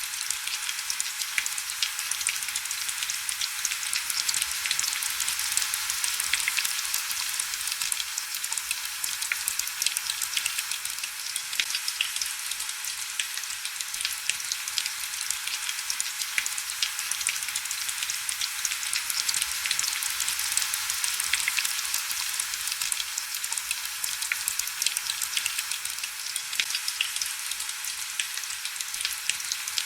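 Heavy rain falling steadily, a dense hiss full of fine crackling drops.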